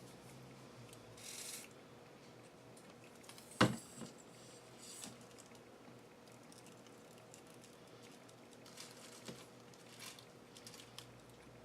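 Faint handling of small craft pieces on a work table: soft rustles and light taps, with one sharp click about three and a half seconds in.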